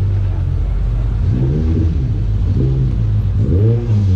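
Car engine running at idle and blipped a few times, its note rising and falling with each rev.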